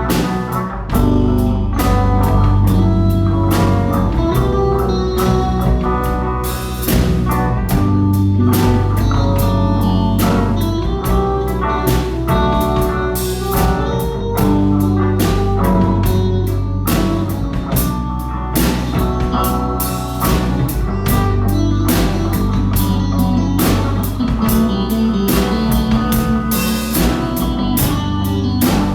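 A rock band playing a song: guitar and bass over a drum kit, with steady drum and cymbal hits.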